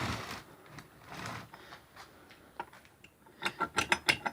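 Used Jawa 350 two-stroke motorcycle engine being handled and turned by hand: faint rustling, then from about three and a half seconds in a quick run of metallic clicks, about ten a second, as its shafts and gears are checked for play.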